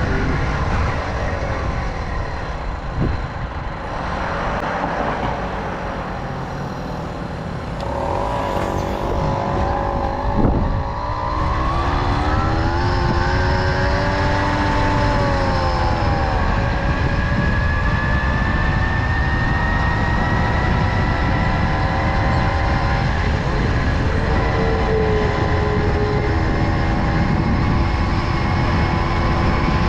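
Tomos moped's small two-stroke engine running under way, with wind buffeting the microphone. About eight seconds in the engine note comes through, with a sharp knock a couple of seconds later; it revs up and back down, then runs steadily with its pitch slowly creeping up.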